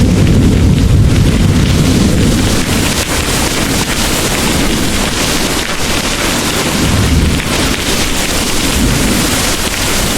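Heavy rain pouring steadily, with low rolling thunder rumbling under it. The thunder is strongest in the first couple of seconds and swells again about seven seconds in.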